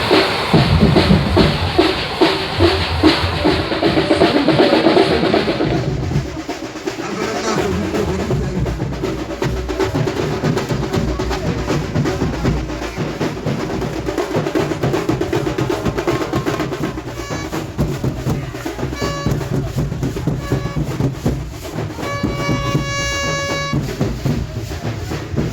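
Loud procession music built on fast, dense drumming, which is fullest in the first few seconds. In the second half a pitched instrument plays short repeated notes, then held notes, over the drums.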